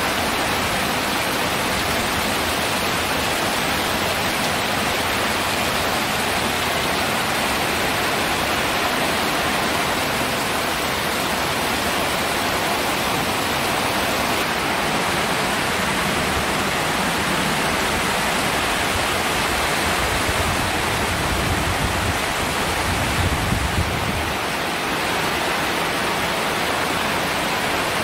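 Heavy rain pouring down in a summer storm, a steady dense hiss. A low rumble swells for a few seconds about two-thirds of the way through.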